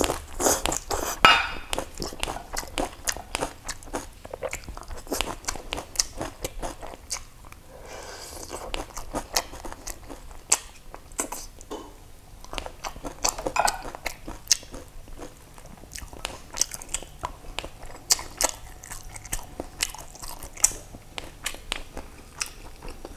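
Close-miked eating: a person biting and chewing mouthfuls of rice, braised fish and fresh herb leaves, with many sharp wet mouth clicks and some crunches.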